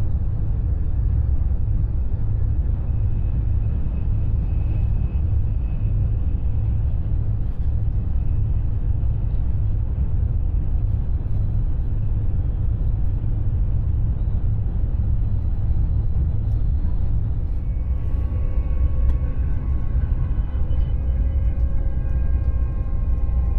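Steady low rumble of a high-speed train running at speed, heard from inside the passenger carriage. Faint steady tones come in near the end.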